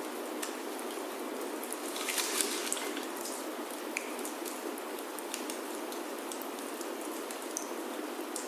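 Steady rain falling on a wooden roof, with scattered sharp crackles from a wood fire in a fireplace; a brief flurry of louder crackles comes about two seconds in.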